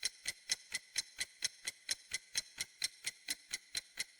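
Clock-style ticking of a countdown timer sound effect: evenly spaced sharp ticks, about four a second.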